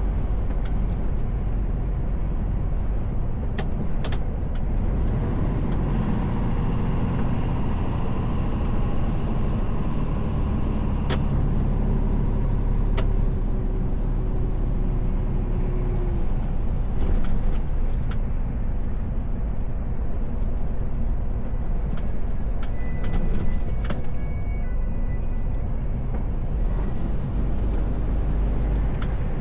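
Mercedes Actros L truck on the move, heard from inside the cab: a steady low engine and road rumble, with a few short clicks along the way.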